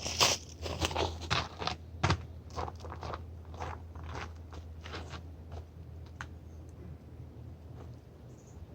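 Footsteps crunching through dry leaf litter, about two a second, growing fainter as the walker moves away and fading out after about six seconds.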